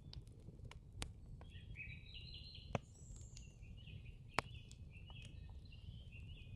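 Faint birdsong: a run of quick, chirping notes, with a few sharp clicks in between.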